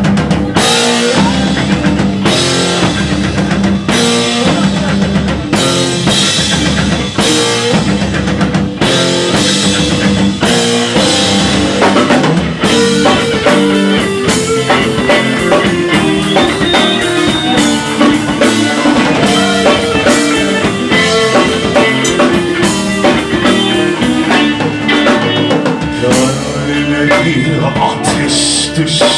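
Rock band playing an instrumental passage: drum kit, electric guitar and bass with a steady beat and regular heavy drum accents.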